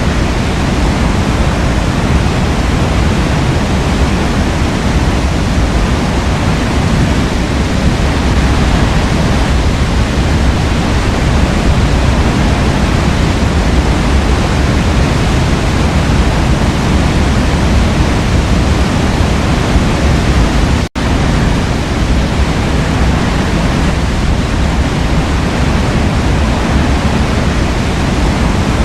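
Forest waterfall: water pouring and splashing in a steady, dense rush, heaviest in the low end. The sound cuts out for an instant about two-thirds of the way in, then resumes unchanged.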